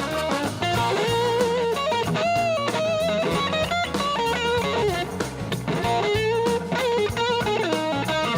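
Live rock band playing an instrumental break: an electric guitar lead with gliding, bending notes over drums and bass.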